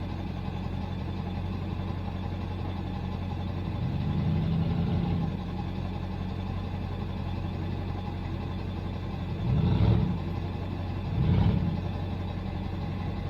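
Pickup truck engine idling steadily, with three short bursts of throttle: a gentle rise about four seconds in, then two louder surges near the end.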